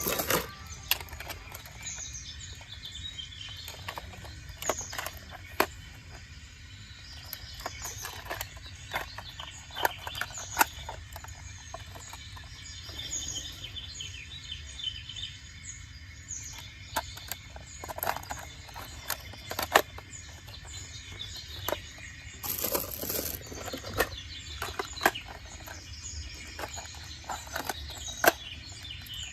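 Small birds chirping in short high calls over a steady low hum, with frequent sharp clicks and knocks scattered throughout.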